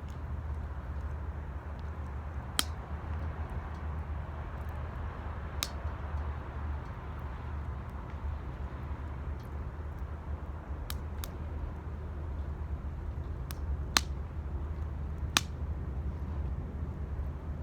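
Wood fire burning in an 18-litre square steel can, with a steady low rumble and a sharp crackling pop every few seconds, the loudest about two thirds of the way in.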